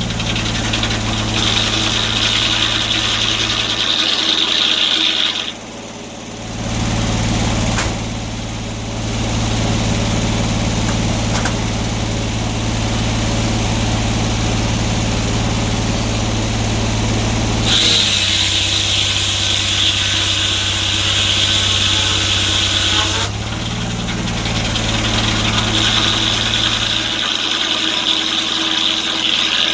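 Sawmill engine running steadily while the blade cuts oak, with a high-pitched whine that comes and goes in stretches of several seconds. The sound drops briefly about six seconds in.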